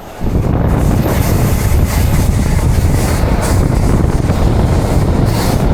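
Loud, steady rush of a moving train, a deep rumble mixed with wind buffeting the microphone, coming in abruptly at the start.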